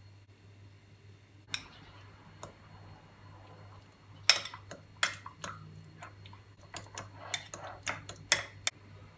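Scattered sharp clicks and taps of small hard objects being handled: one about a second and a half in, then a quick run of about a dozen between roughly four and nine seconds in, over a low steady hum.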